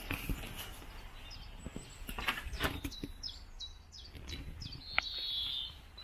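Small birds chirping, with a run of short falling chirps about three seconds in and a higher held note near the end. A few sharp clicks and knocks sound among them.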